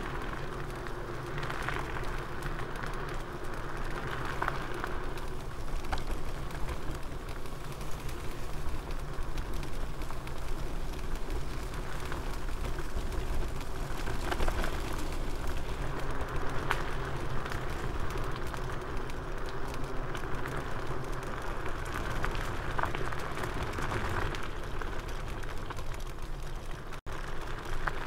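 KuKirin G2 Max electric scooter riding over rough forest paths: a steady rush of tyre and ground noise with constant small rattles from the scooter, and a faint electric motor whine underneath.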